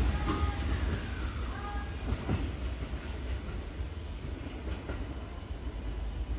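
Kintetsu train running slowly into the station with a low rumble and wheel clacks over rail joints. Short high-pitched squealing tones sound in the first two seconds.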